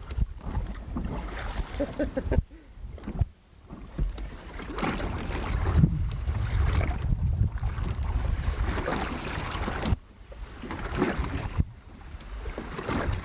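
Wind buffeting a camcorder microphone on a motorboat, with boat and water noise underneath. It comes in gusts and drops away briefly a couple of times.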